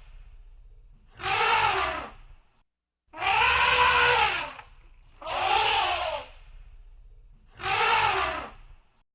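Elephant trumpeting: four brassy calls of about a second each, roughly two seconds apart, each rising and then falling in pitch.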